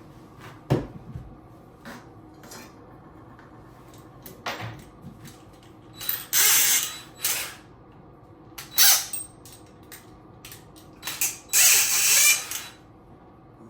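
Tool work: a knock about a second in, then several short noisy bursts of a tool, the longest about a second and a half near the end.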